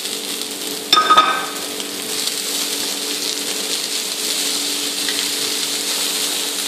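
Diced carrots, peas and beans sizzling as they fry in a hot oiled wok, stirred with a wooden spatula. A short ringing clink comes about a second in, over a steady low hum.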